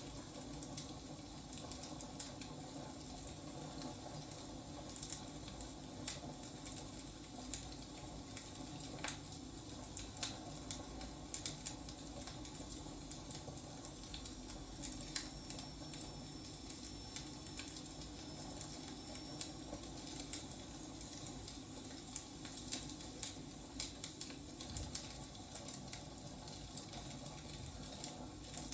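Wood fire burning, with a steady low rush and irregular sharp crackles and pops from the burning logs.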